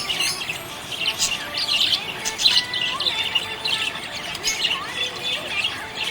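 Budgerigars chirping and chattering in a dense, unbroken run of short calls, with a few brief whistled notes among them.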